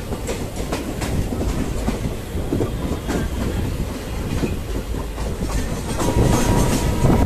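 Maa Tara Express passenger train running, its wheels clicking rhythmically over the rail joints, heard from on board. It grows louder about six seconds in, where a steady high tone joins the rumble.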